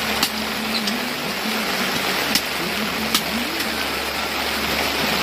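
Steady hiss of rain, with a few sharp ticks and a low steady hum underneath.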